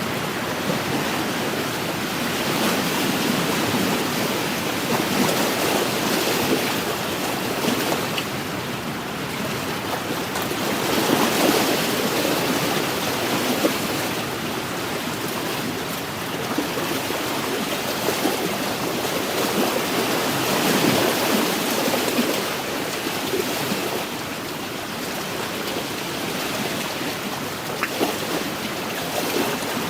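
Wind-driven waves lapping on an inland lake's shore, with wind; the wash swells and eases every few seconds, with a few small splashes.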